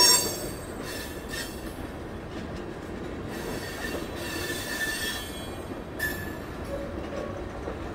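Freight train tank cars rolling past on the rails, with the wheels running steadily and a loud clank right at the start. A few short, high wheel-on-rail squeals come about a second in, around four to five seconds in, and again at six seconds.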